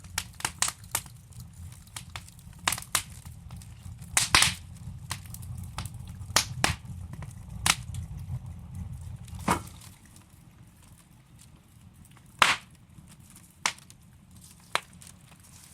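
Wood fire crackling in a fireplace: irregular sharp pops and snaps from the burning logs, busy over a low rumble for the first half and sparser after about ten seconds, with a loud pop near 12 seconds.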